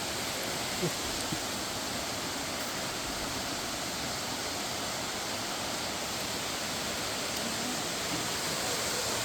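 Waterfall rushing in a steady, even roar of falling water, with a couple of faint knocks about a second in.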